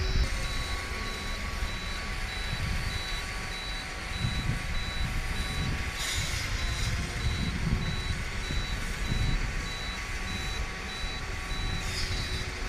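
Gusty wind buffeting the microphone, with the faint steady whine of a toy quadcopter's motors. A high-pitched beep repeats quickly and evenly throughout.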